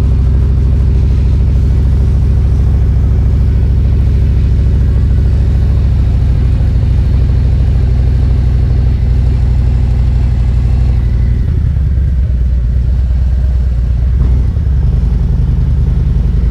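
Motorcycle engine running as it rides at low speed through town, a steady low drone that eases off for a few seconds past the middle and then picks up again.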